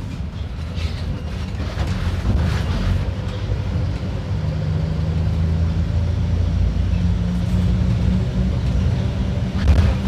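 Mercedes-Benz OF-1721 BlueTec 5 bus diesel engine running with a steady low drone; a higher hum joins about four seconds in and fades near eight seconds, and a short rattle comes near the end.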